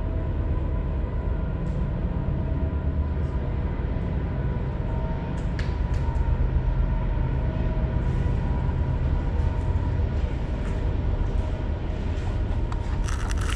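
A passing train: a continuous low rumble that stays steady, with faint steady tones riding above it.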